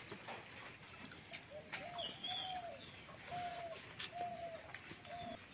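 A bird calling in a run of about six short, even-pitched notes, with a few light clicks in between.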